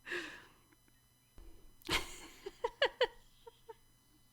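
A woman laughing: a short breathy exhale, a pause, then a burst of laughter that breaks into a quick run of short, pitched "ha" notes, tailing off.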